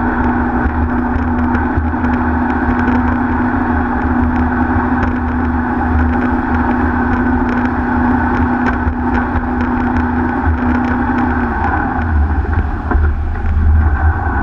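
Speedboat engine running steadily over a heavy, uneven low rumble, its hum dropping away about eleven seconds in as the engine eases off.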